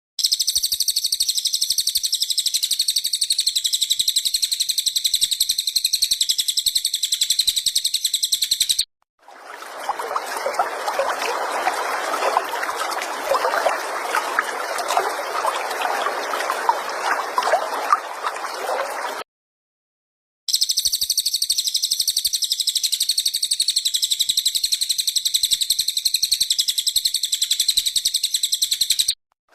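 Recorded cililin song: a high, continuous, buzzy trill that goes on unbroken for about nine seconds at a time. It plays twice, with about ten seconds of trickling water between the two stretches and short silent breaks between the parts.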